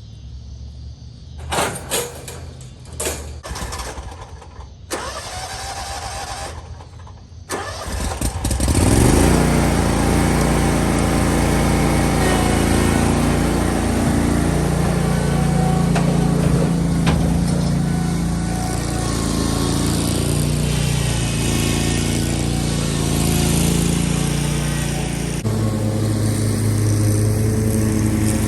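A few knocks and clunks, then a lawn mower engine starts about eight seconds in and runs steadily, shifting to a lower, louder note a few seconds before the end.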